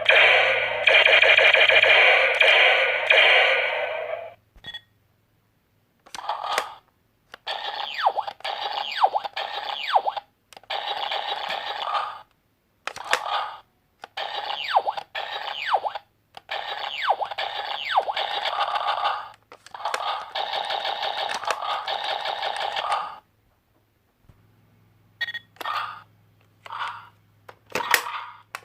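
Child's electronic toy gun firing: bursts of rapid, ringing electronic zaps with falling pitch sweeps, each burst one to three seconds long, stopping and starting again about a dozen times, with shorter bursts near the end.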